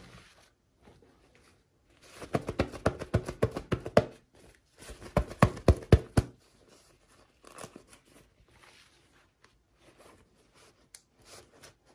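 Packaging being unwrapped by hand: two bursts of dense crinkling and crackling, each lasting a couple of seconds, followed by faint scattered handling taps.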